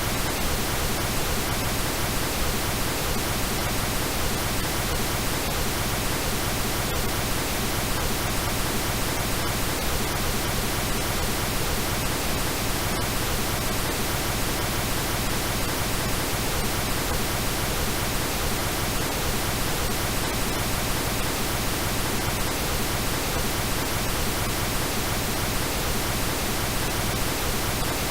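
Steady synthetic pink noise hiss, even and unchanging, with faint steady tones mixed in.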